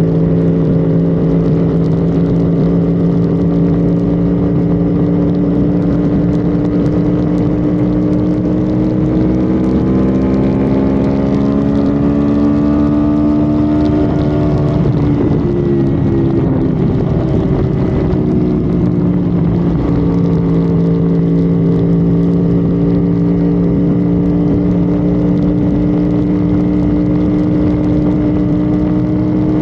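Honda Civic FD's engine droning at highway speed. Its pitch rises steadily a third of the way in as the car accelerates, then drops and settles back into a steady drone.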